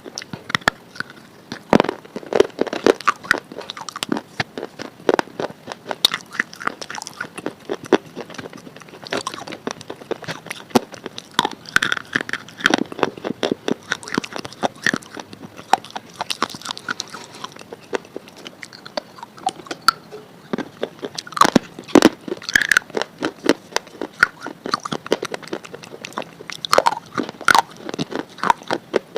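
A person biting and chewing crunchy food close to the microphone: dense, irregular crunches with occasional louder snaps from bites.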